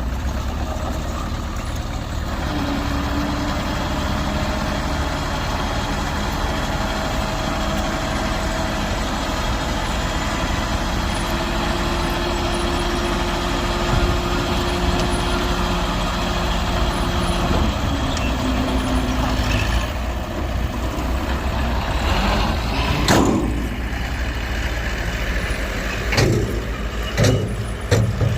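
Diesel earthmoving machinery running steadily under work, its engine note shifting in pitch a few times. A few sharp clanks come near the end.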